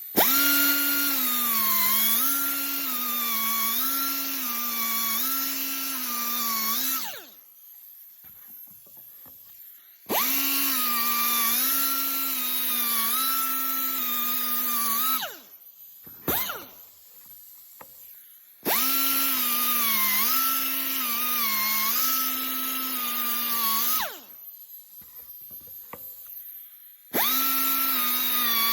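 Grinder running in stretches of about five to seven seconds with short pauses between, its pitch dipping briefly about once a second as the spinning abrasive is pressed into the metal to cut each swirl of a grinder-tattoo pattern.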